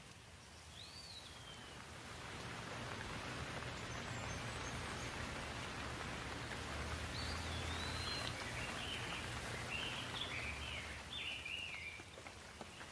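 A steady wash of water noise, rain or running water, swells over the first few seconds and eases near the end, with a low hum underneath. A small bird chirps: one short falling note about a second in, then a run of chirps in the second half.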